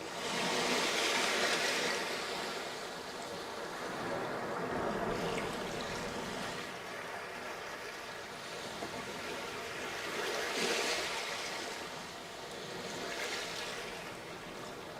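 Small waves breaking on a sandy beach and washing back, in several surges: the strongest near the start and about ten seconds in.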